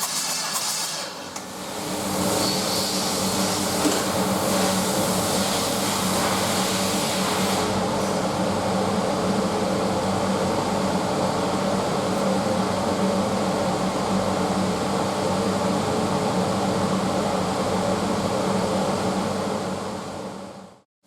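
SsangYong Korando C 2.0 XDi four-cylinder diesel engine (671.950) running steadily at a constant speed. It comes in about two seconds in, with extra hiss for the first several seconds, then holds an even drone until it cuts off suddenly near the end.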